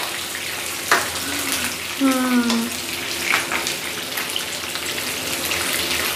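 Chicken kaldereta sauce sizzling and simmering in a wide pan on a gas stove, a steady hiss. A metal spoon clicks against the pan about a second in, and there is a brief voice about two seconds in.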